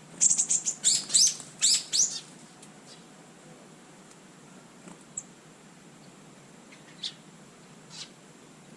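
A garden songbird calling: a loud run of about eight quick, high, falling chirps in the first two seconds, then a few single faint chirps.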